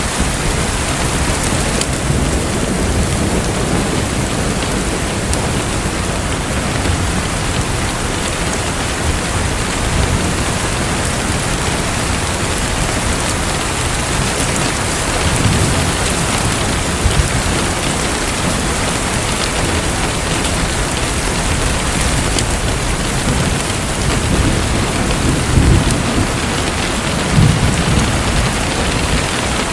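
Steady hiss of falling or splashing water, with deep rumbles that swell briefly a few times in the second half.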